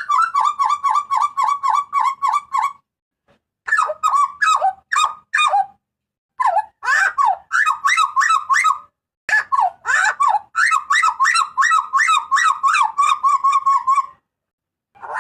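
Hooded butcherbird (jagal papua) calling loudly: fast runs of repeated, squeaky whistled notes, about five a second, in several phrases broken by short pauses.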